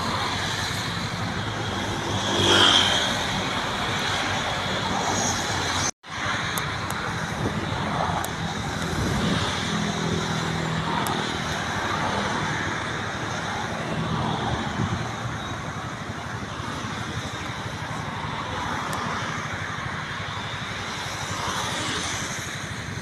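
Steady road-traffic noise with cars passing, cutting out abruptly for a moment about six seconds in.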